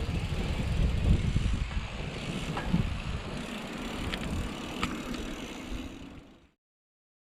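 Wind and road noise from riding a bicycle: a rough, low rush with a few light clicks, fading out to silence near the end.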